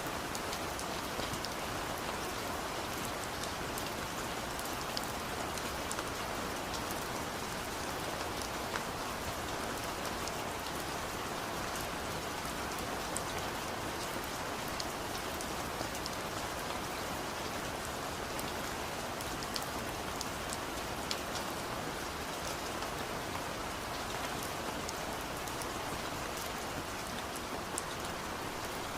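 Steady rain falling, an even hiss with many small sharp drop impacts scattered through it.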